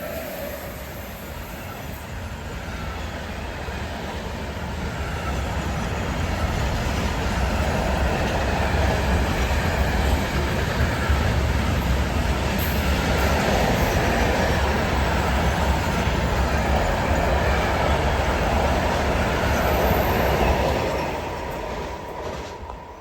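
A train passing close by on the line: its rumble builds over the first several seconds, holds steady, and fades about 21 seconds in.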